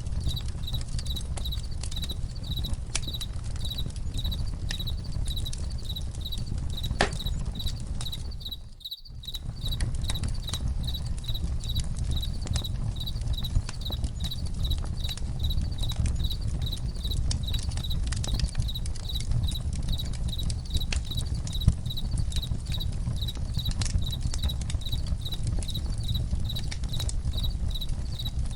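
Campfire crackling, with many sharp pops over a low steady rumble, while crickets chirp in a steady, evenly pulsing high trill. The whole sound dips away for a moment about nine seconds in.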